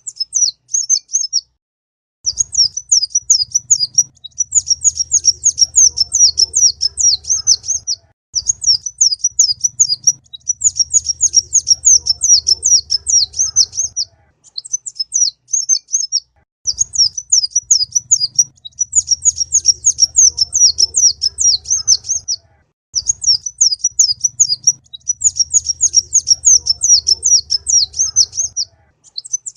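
Song of a sunbird of the kind sold as 'kolibri ninja': rapid, high-pitched chattering trills in bursts of a few seconds with short breaks. The pattern repeats again and again, as a looped tutor recording played to teach caged songbirds.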